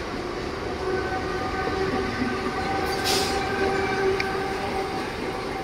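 Mumbai suburban electric local train (EMU) running at the station: a steady rumble with a held hum of several steady tones, and a brief hiss about three seconds in.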